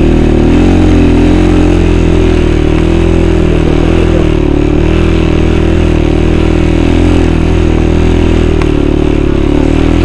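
Small vehicle engine running steadily close to the microphone, its pitch wavering slightly as if idling.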